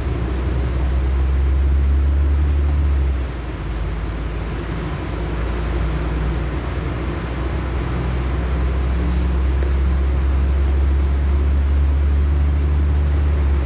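LiAZ-6213.65 articulated diesel city bus under way, heard from inside the cabin: a steady low engine drone over road noise that dips briefly about three seconds in and then builds again.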